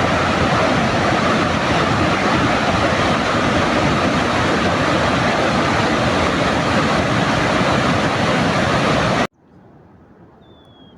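Loud, steady rushing noise that cuts off abruptly about nine seconds in, leaving a quiet background with one short high chirp near the end.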